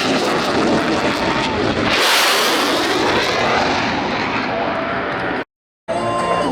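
Blue Angels F/A-18 Super Hornet jets flying past in formation, a loud, steady jet rush that grows harsher about two seconds in. The sound cuts out abruptly near the end, and music starts after the cut.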